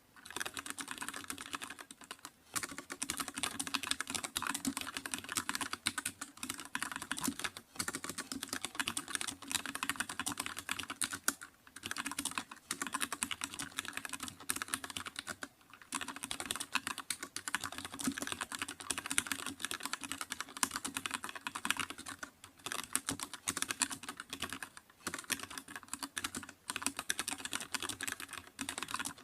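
Computer keyboard being typed on rapidly and continuously: a dense stream of key clicks, broken by a few brief pauses.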